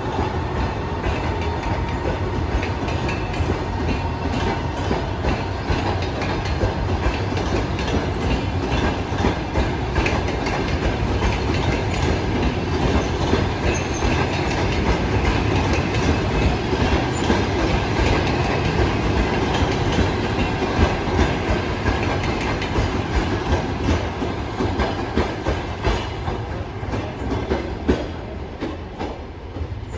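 Passenger coaches of a train departing behind an EP2K electric locomotive rolling past close by, their wheels clicking and clattering over the rail joints. The sound eases off near the end as the train draws away.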